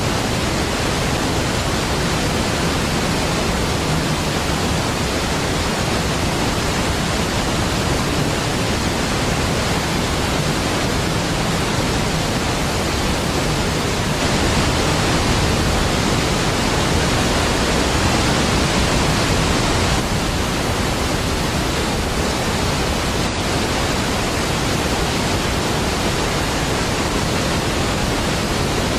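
Niagara Falls pouring steadily: an even, deep wash of falling water with no changes or breaks.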